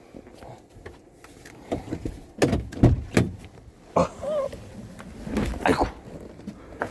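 A series of irregular knocks and thuds, several of them loud, with a brief wavering tone a little after the middle.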